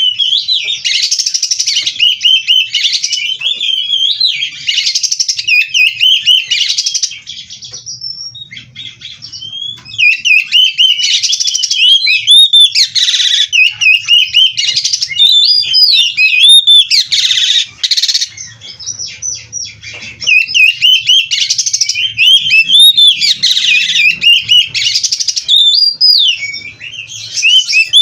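Oriental magpie-robin (kacer) singing loudly and continuously, a fast varied run of whistles, trills and mimicked phrases of other birds. It eases off briefly twice before resuming.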